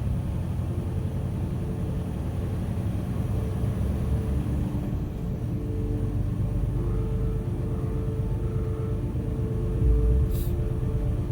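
Semi-truck running at low speed: a steady low rumble with a droning engine tone. A short hiss comes near the end.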